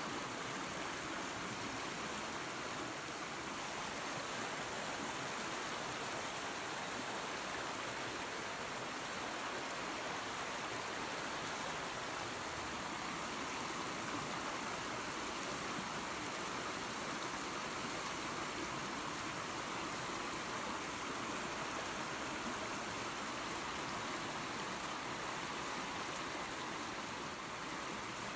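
Creek water and a small waterfall running, a steady even rushing of water with no breaks.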